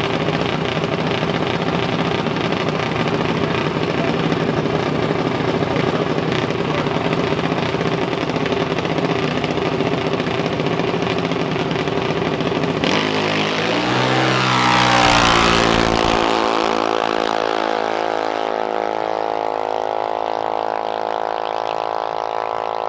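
Diesel drag-racing truck making a pass down the strip. Its engine runs hard at a steady pitch, swells to its loudest as it goes by about 15 seconds in, then falls in pitch as it pulls away.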